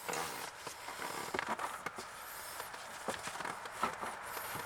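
Scraping, rustling and scattered light clicks as the old heater core is slid out of its plastic HVAC housing, with a brief hissing scrape about halfway through.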